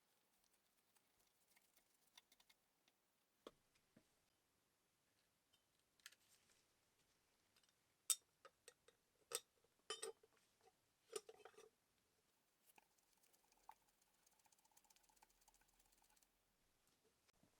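Otherwise near-silent room with scattered light clicks and small knocks, several sharper ones bunched together around the middle.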